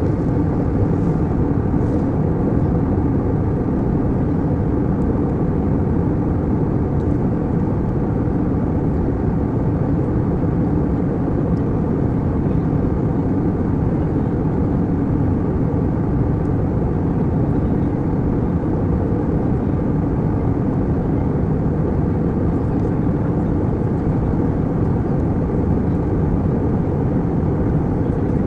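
Steady passenger-jet cabin noise: a constant low rumble of engines and rushing air, unchanging throughout.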